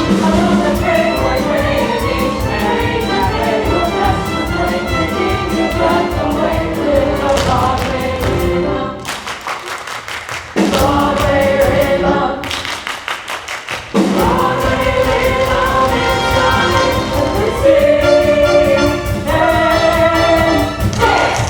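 A live stage-musical number: several voices singing together with a pit orchestra. Twice, about nine and twelve seconds in, the singing drops out for a moment and only a quick run of sharp taps is left.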